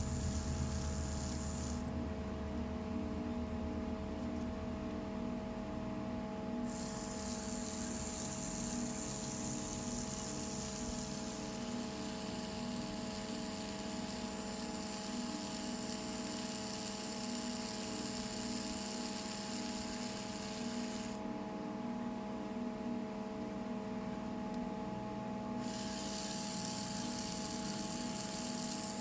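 Small electric motor of a homemade mini toy tractor running with a steady whine.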